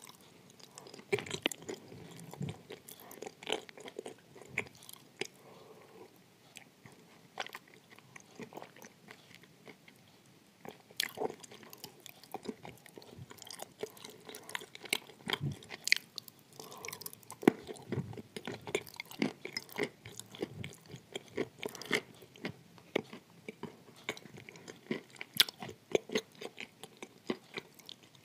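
Close-miked chewing of wet grey clay: wet mouth sounds broken by many sharp, irregular clicks and crunches.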